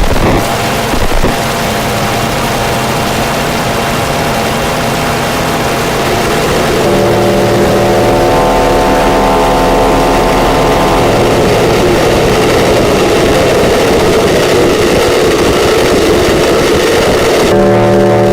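Modular synthesizer noise music: a dense harsh noise wash with a couple of loud jolts at the start, joined about seven seconds in by a low sustained drone of several steady tones that holds on. Near the end the hiss thins out and the drone stands out more.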